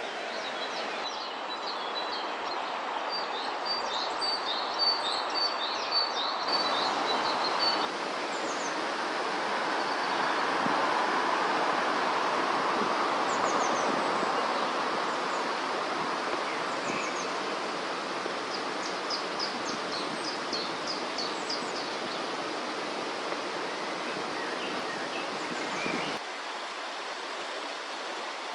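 A river running steadily, with small birds chirping in short high bursts at intervals, most in a quick series a few seconds in and again past the middle. The water sound shifts abruptly a few times where the recording is cut.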